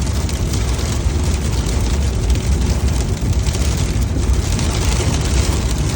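Storm wind and rain beating on a car, heard from inside the cabin: a steady, loud hiss over a deep rumble.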